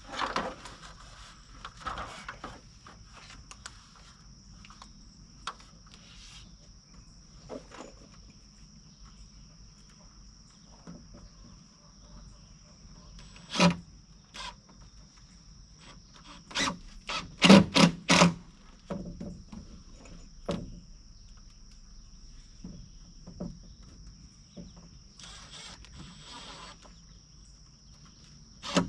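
Steady high-pitched drone of insects such as crickets, with scattered sharp knocks of rafter framing work on lumber, the loudest a quick run of about four knocks around the middle.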